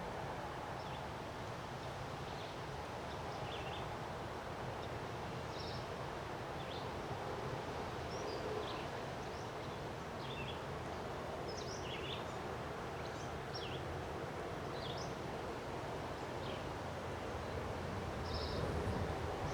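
Strong wind rushing steadily through trees and foliage, with short bird chirps scattered throughout. Near the end the wind picks up and buffets the microphone.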